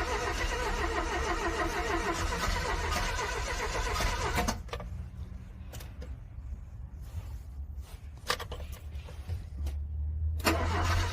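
Car starter cranking a cold engine that does not catch. The cranking stops suddenly about four and a half seconds in, a couple of sharp clicks fall in the pause, and cranking starts again near the end.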